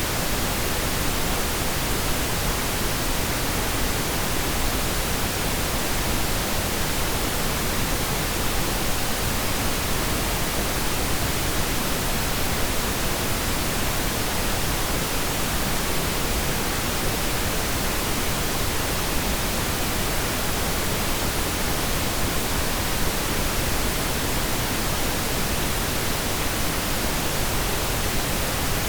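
Steady pink noise: an even, unchanging hiss with no drops, clicks or tones.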